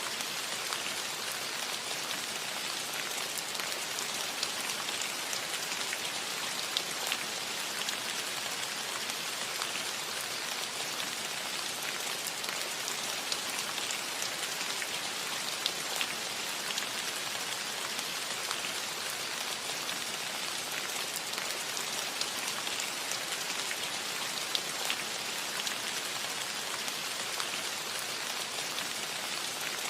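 Steady rain falling on a metal roof: an even hiss of rain with many small, sharp drop ticks scattered through it.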